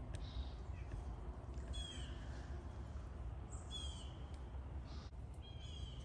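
A small bird calling three times, about two seconds apart; each call is a quick run of notes falling in pitch that ends in a short held note. A steady low rumble lies underneath.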